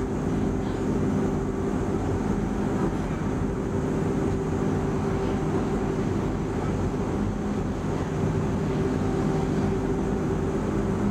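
Steady hum of an X10 electric commuter train standing still at a station, heard from inside the carriage: the drone of its onboard equipment with a few steady low tones and no change in pitch.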